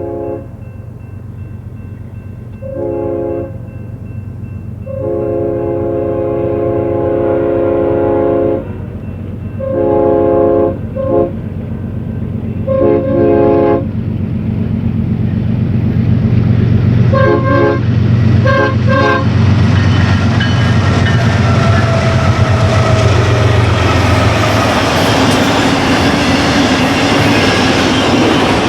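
An approaching BNSF diesel freight locomotive sounds its air horn in a series of long and short blasts over a building low engine rumble. From about two-thirds of the way through, the train passes close by with loud steady wheel-on-rail rolling noise.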